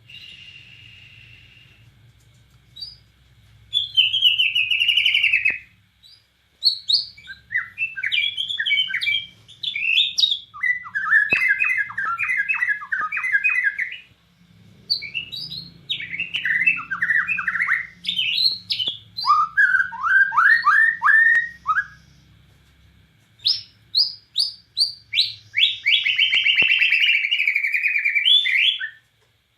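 White-crowned shama (murai batu Borneo) singing in loud phrases, each a fast series of repeated sweeping whistled notes, with brief pauses between phrases. A faint low hum runs underneath.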